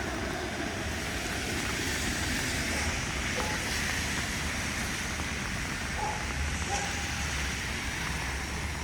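Steady hiss of heavy rain, with a low rumble underneath.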